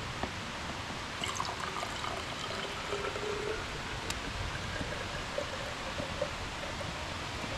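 Mountain stream flowing steadily, an even rush of running water.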